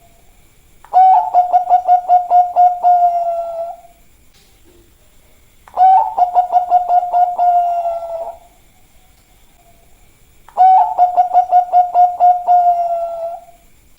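Zebra dove (perkutut, Bangkok type) cooing: three long phrases about five seconds apart, each a quick run of notes held at one pitch.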